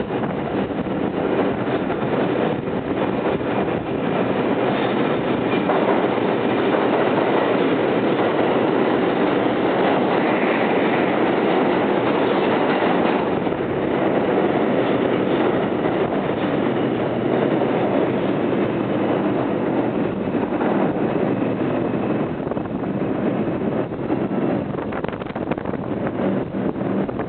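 R142 subway train running along the station track: a loud, steady noise of wheels on rail and running gear that goes on without a break.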